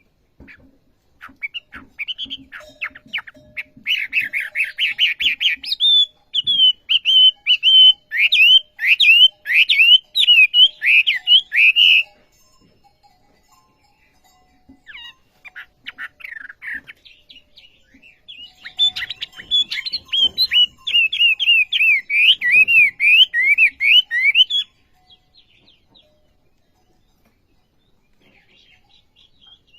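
Wambi songbird singing vigorously: two long bouts of fast, repeated chirping notes, the first about ten seconds long and the second about six, with a short snatch of song between them.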